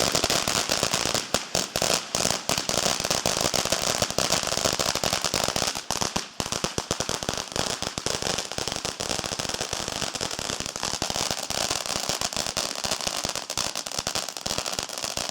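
Garden firework crackling: a dense, rapid stream of small pops and cracks that never lets up, a little quieter after about six seconds.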